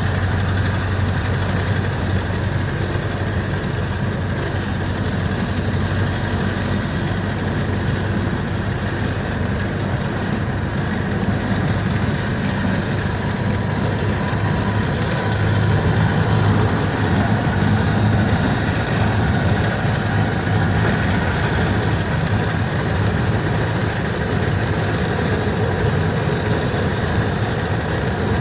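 The four-cylinder engine of a 1929 Ford Model A running as the car is driven, heard from inside the car: a steady low drone over road noise that grows a little louder about sixteen seconds in.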